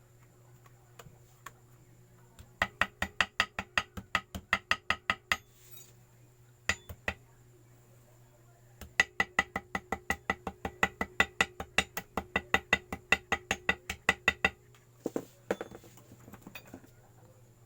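Small hammer tapping rapidly on metal with a ringing note, in two runs of about five taps a second with a few single taps between and after: tapping out a homemade gasket against the motorcycle engine's mating face.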